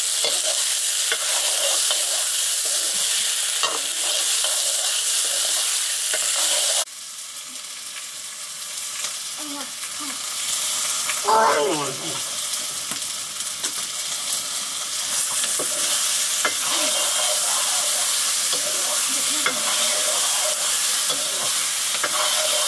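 Sliced vegetables sizzling in oil in an iron wok over a wood fire while being stirred with a metal ladle; the sizzle drops suddenly in level about a third of the way in. A brief pitched, wavering sound, like a short voice, stands out about halfway through.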